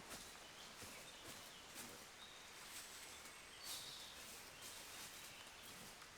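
Faint forest ambience: a few short, thin, high bird chirps over a soft hiss, with scattered light ticks.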